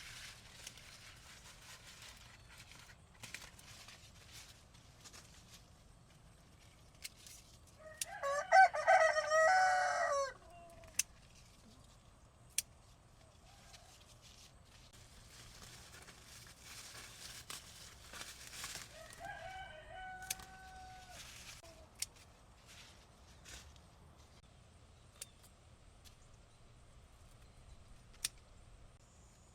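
A rooster crowing: one loud crow about two seconds long, then a second, fainter crow about ten seconds later. Scattered light clicks sound between them.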